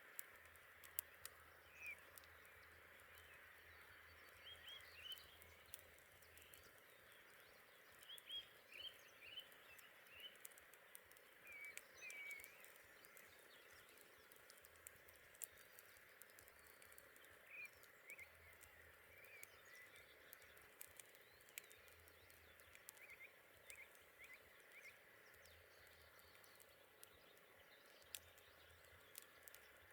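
Faint campfire crackling, with sharp pops scattered throughout, over a steady soft hiss. Short high chirping calls come in small runs every few seconds.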